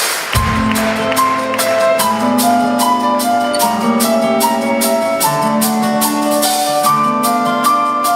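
A live band playing an instrumental song introduction. Drums keep a steady beat, a low bass line comes in just after the start, and a keyboard plays a melody of short held notes.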